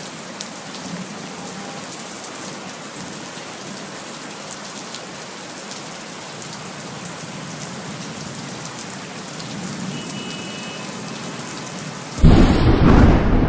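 Steady rain falling in a thunderstorm, an even hiss with many small drop ticks. About twelve seconds in, a sudden loud, low rumble takes over and becomes the loudest sound.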